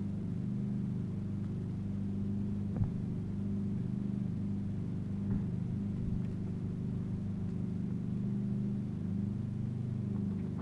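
Steady low motor hum, with a couple of faint clicks.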